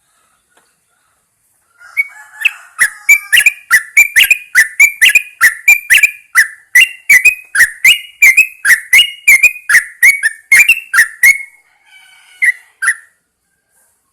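Yellow-vented bulbul singing: a fast run of loud, clear whistled notes, about three a second, lasting some nine seconds, then two more notes after a short pause.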